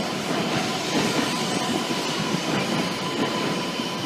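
Shinkansen train rolling slowly into the platform on arrival: a steady rumble of wheels on rail with a faint steady whine.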